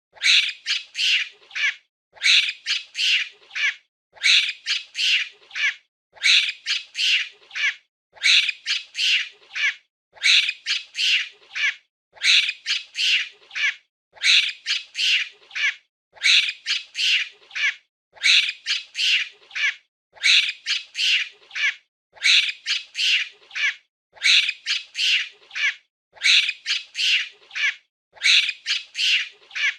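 Monkey screeching, a burst of several quick high-pitched calls that repeats almost identically about every two seconds, with a short silence between bursts.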